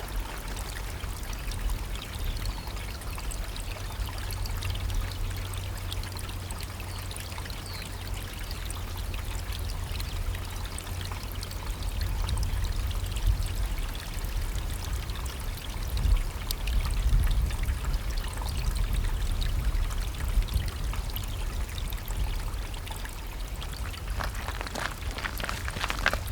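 A spring-fed chalk stream trickling and flowing steadily over gravel, with a deep low rumble underneath.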